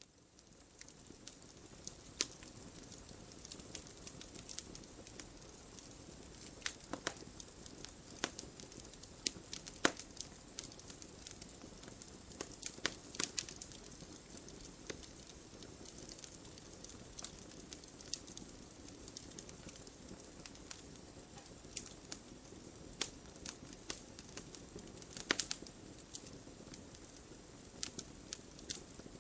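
Wood fire crackling: irregular sharp pops and snaps over a steady soft hiss, fading in from silence at the start.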